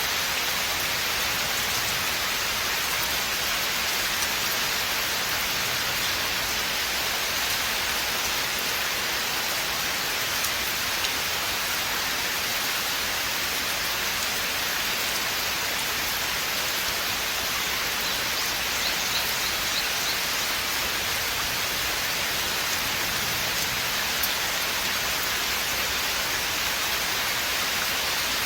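Steady rain falling on forest foliage: a dense, even hiss of drops that holds level throughout.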